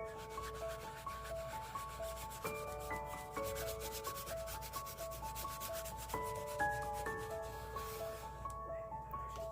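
Fast, continuous rubbing strokes on a surface, over soft background music of slow held notes.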